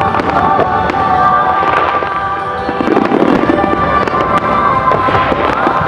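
Fireworks bursting one after another, with sharp bangs and crackling and a heavier cluster of bursts about three seconds in, over music with long held notes.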